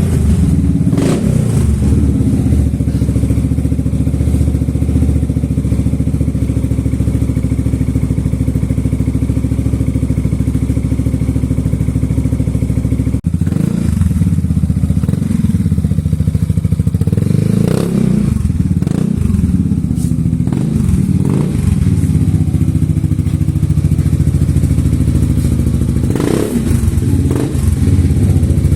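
Yamaha XMAX scooter's single-cylinder engine, bored up to 300 cc, running through an aftermarket Frog exhaust with a deep, bassy note. It idles steadily for the first half, then is blipped several times, with short revs in the second half.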